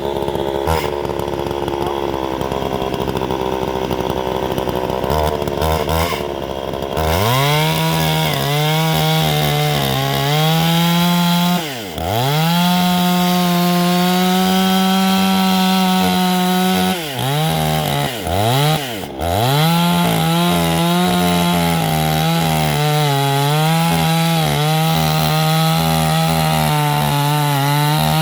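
Two-stroke chainsaw running hard, likely cutting wood. Its pitch dips sharply and recovers several times as the engine is loaded.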